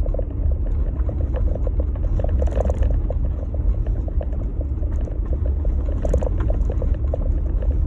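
Jeep Gladiator driving on a snowy trail: a steady low rumble of engine and tyres, with frequent small irregular knocks and clicks over it.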